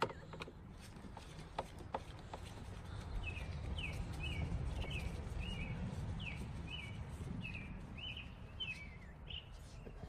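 A bird calling repeatedly from about three seconds in: a run of short, falling chirps, about two a second, over a low steady background rumble. In the first couple of seconds come a few light clicks from a screwdriver working door-panel screws.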